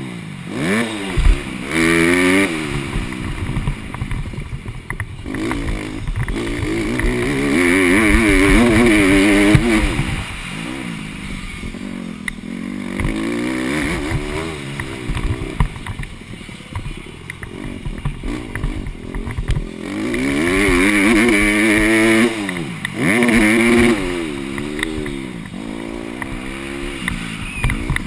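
Honda CRF150R's single-cylinder four-stroke engine revving hard and falling back over and over as the throttle is opened and closed, its pitch climbing high then dropping in repeated sweeps.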